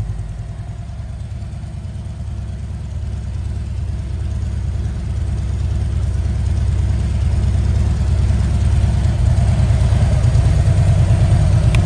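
A 2019 Harley-Davidson Road Glide CVO's Milwaukee-Eight 117 V-twin idling through a Rinehart full exhaust, with a deep, even pulse. It grows gradually louder over the first several seconds, then holds steady.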